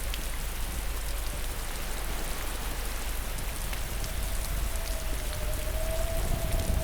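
Steady rain with scattered drop patters over a low rumble, and a faint wavering tone that fades out and comes back about two-thirds of the way through.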